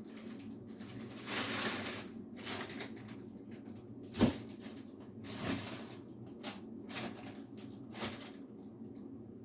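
Containers and packages being handled and moved about in a kitchen refrigerator: rustling, with a sharp knock about four seconds in and a few lighter knocks after, over a low steady hum.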